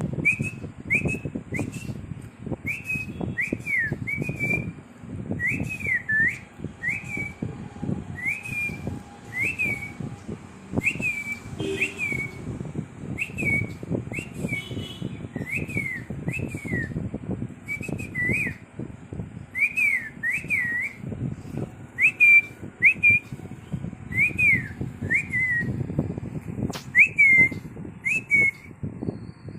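Short, clean whistled notes that swoop up and down, repeated one or two a second, often in pairs, all through, over a low rumble of handling noise.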